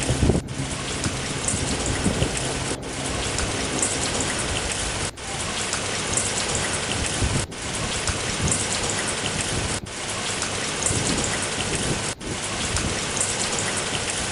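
Steady hiss of heavy rain, broken by short dropouts every two seconds or so. A low engine drone fades out in the first few seconds.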